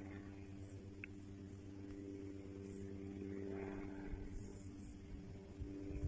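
Steady engine hum at an even pitch, with low uneven rumbling coming in near the end.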